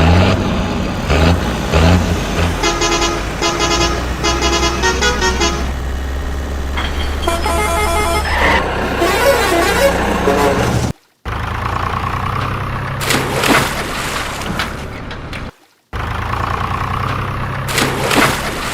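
A vehicle horn tooting in a quick series of short honks over a steady low motor hum, with more pitched horn-like sound following; the sound cuts out abruptly twice.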